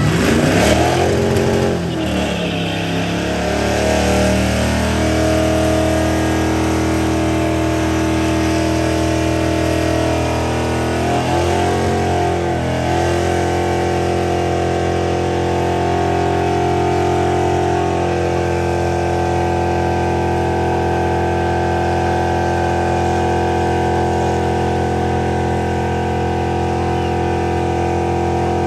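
Car engine revving hard, then held at steady high revs for a burnout. The revs swing up and down twice before settling into a long, steady note.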